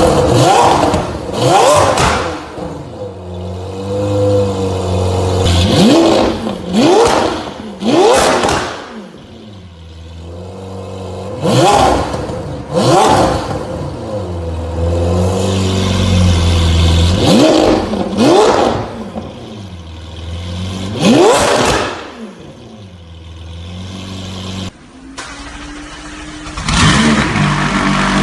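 Car engine revved hard through a loud exhaust in quick blips, mostly two or three in a row, dropping back to a steady idle between them. Near the end a different-sounding engine idles and is blipped once more.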